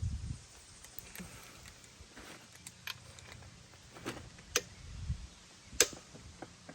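Scattered sharp metallic clicks and clinks of hand tools and engine parts being handled, the loudest a little past halfway, over a low steady hum.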